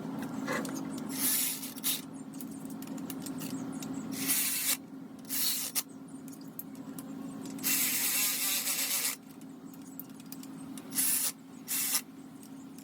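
Workshop tool noise: several short bursts of hissing, spray-like noise, the longest about a second and a half, over a steady low hum.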